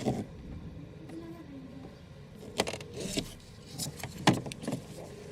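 Scattered sharp clicks and light knocks, about half a dozen, with a cluster a little under halfway through and more near the end, over a faint steady hum.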